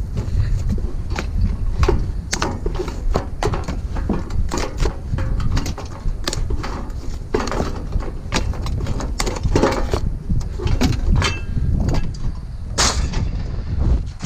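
Irregular knocks, clicks and clatter of scrap metal and fixtures being handled and sorted, some in quick clusters, over a steady low rumble.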